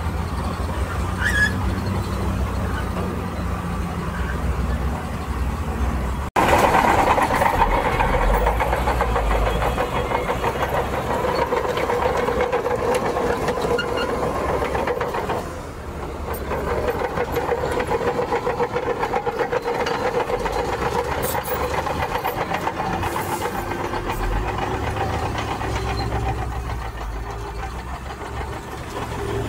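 Diesel engines of heavy earthmoving machinery running steadily under work. There is an abrupt cut about six seconds in, after which the engine sound is louder.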